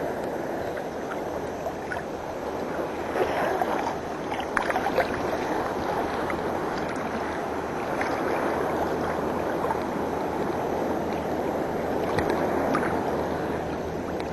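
Seawater sloshing and lapping close to the microphone as people swim, with a few small splashes.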